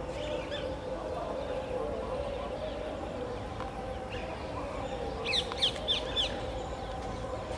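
A bird gives four quick chirps, each falling in pitch, about five seconds in, over a steady low background rumble.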